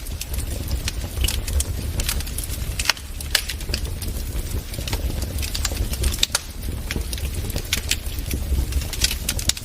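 Wood fire crackling in a fireplace: a steady low rumble of the flames with irregular sharp pops and snaps of burning wood, several each second.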